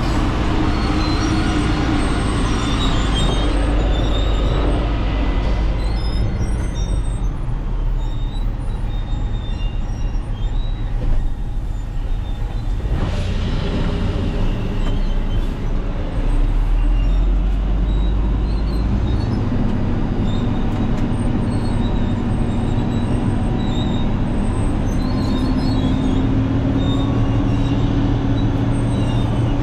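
Silage truck's engine running with a steady low drone. In the second half a whine climbs slowly in pitch as the truck picks up speed.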